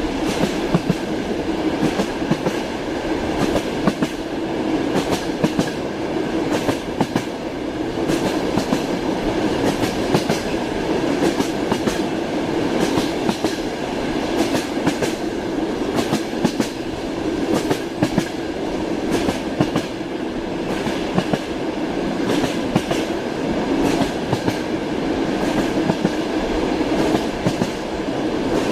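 Train wheels clattering over rail joints, heard as a steady rumble with frequent irregular sharp clicks.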